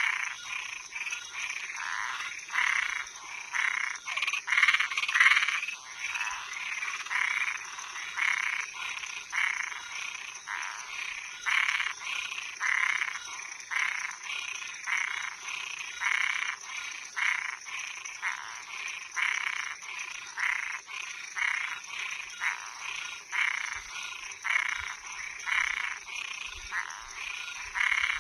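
Night chorus of frogs and treefrogs calling, short croaking notes repeating about one or two a second and overlapping, over a steady high-pitched drone.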